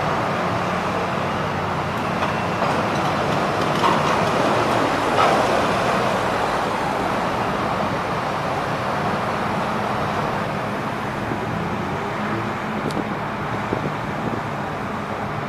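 A vehicle engine running steadily under a constant noisy hum, with a few short knocks about four and five seconds in.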